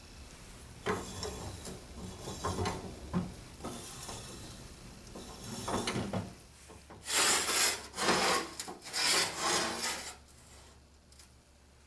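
A series of rough rubbing, scraping strokes by hand, growing louder about two thirds of the way through, with three strong strokes before it settles.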